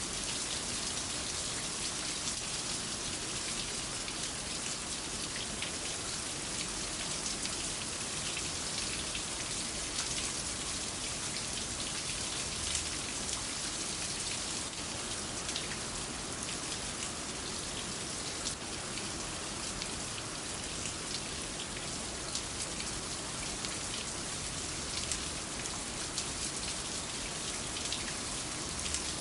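Steady rain falling: an even hiss with many small sharp drop ticks.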